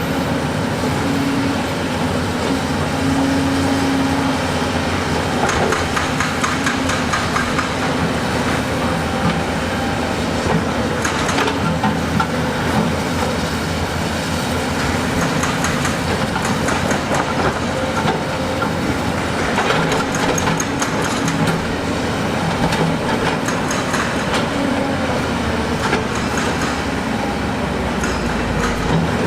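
Heavy diesel construction machine running steadily, with bouts of clattering and knocking.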